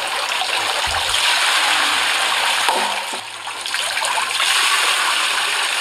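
Water rushing and splashing steadily through a stream-fed channel, with a short low thump about a second in.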